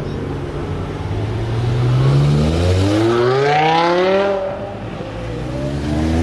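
BMW M5 E60's 5.0-litre S85 V10 accelerating away, its revs climbing steadily, falling back about four seconds in, then climbing again.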